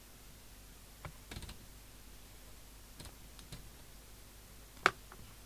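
A few scattered clicks and taps of handling at a workbench, with one sharper click near the end.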